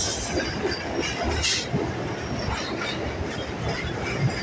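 Suburban electric train running along the track, heard from the open doorway of a moving coach: a steady rumble and rattle of wheels over rail joints, with a brief high hiss about a second and a half in.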